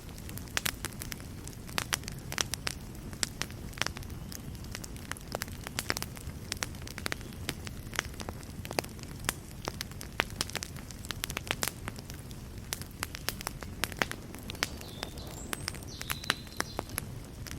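Wood fire crackling in a fireplace: a steady low rush of flame with frequent, irregular sharp pops and snaps from the burning logs. A faint high thin whistle comes in near the end.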